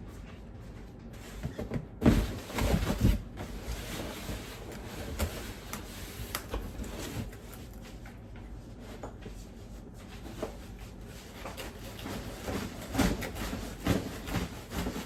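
Knocks, bumps and clatter of things being handled and moved, loudest about two seconds in and again near the end, with scattered clicks between.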